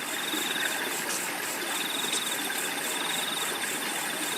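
Flowing river water, a steady rushing hiss, with a cricket trilling in a continuous high pulsed chirp that pauses briefly about a second in and then resumes.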